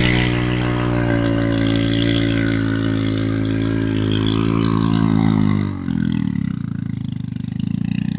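An engine running steadily at a fairly high speed, easing down a little, then dropping to a slow idle about six seconds in, where its separate firing pulses can be heard.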